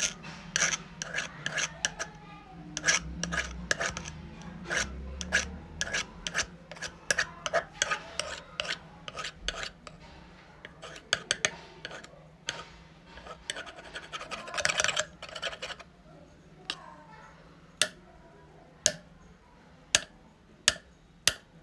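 Dense clicking and scraping of small hard objects being handled, over a faint steady hum. Near the end it thins to single sharp clicks about once a second.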